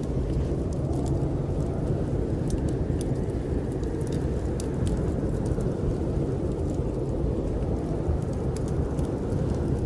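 Snowstorm wind as a steady, deep rumble, with a wood fire's small crackles and pops scattered throughout.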